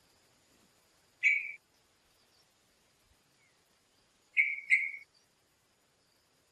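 A bird giving three short calls: one about a second in, then a quick pair about three seconds later.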